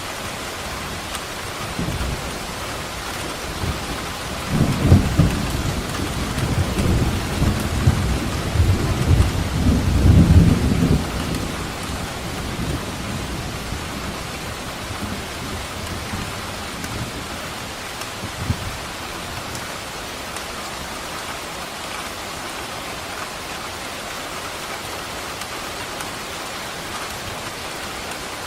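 Steady heavy rain with a roll of thunder rumbling from about four seconds in, loudest near five and ten seconds, then dying back to the rain by about twelve seconds.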